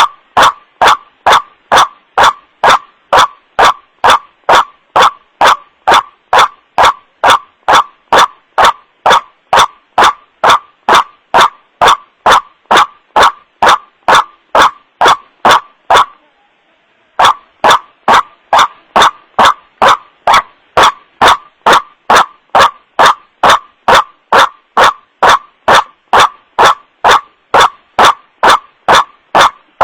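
White-breasted waterhen's harsh 'wak' call, played as a looped luring recording: one note about every half second, loud and distorted by clipping, with a break of about a second halfway through.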